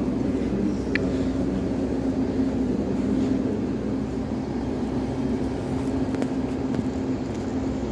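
Steady low mechanical drone of a passenger train at a station platform, holding one pitch throughout, with a short high chirp about a second in.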